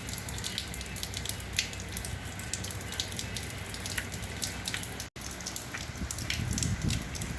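Hurricane rain falling, with many drops pattering and dripping over a steady wash of noise. The sound cuts out for an instant about five seconds in.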